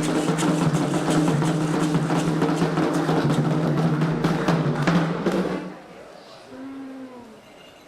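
Candomblé ceremonial drumming, fast and dense, with a steady low tone under the strokes; it stops abruptly about five and a half seconds in, leaving faint voices.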